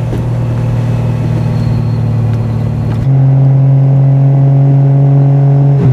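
Triumph TR6's straight-six engine running through a Monza exhaust with steel resonators, held at a steady pitch under even throttle. About halfway through, the note becomes abruptly louder and steadier, with less hiss.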